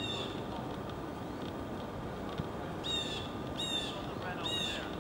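A bird calling four times in short harsh notes: one at the start, then three close together in the second half. A steady low background noise runs underneath.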